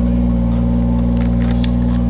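The engine of a firewood-cutting machine running steadily, with a few short sharp clicks or cracks a little over a second in.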